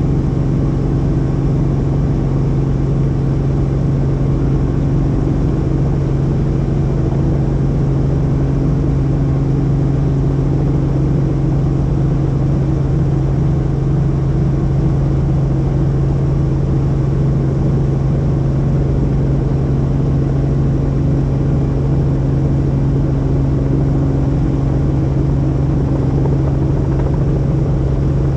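Helicopter engine and rotor running steadily: a constant low drone that holds the same pitch throughout.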